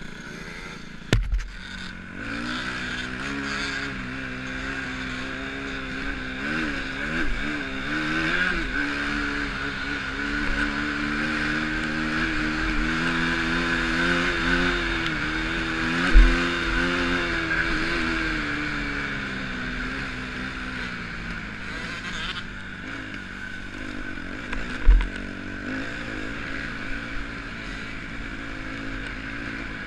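Motocross bike engine running and revving, its pitch rising and falling as the bike is ridden, then fading after about twenty seconds. There are a few short low thumps along the way.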